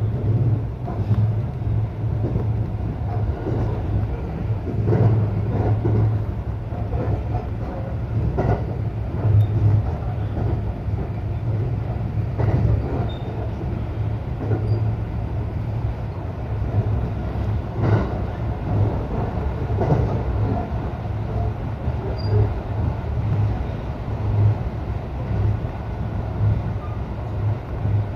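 Local electric train running between stations, heard from inside the carriage: a steady low rumble of wheels on rail that pulses unevenly, with scattered knocks from the track and one sharper knock about two-thirds of the way through.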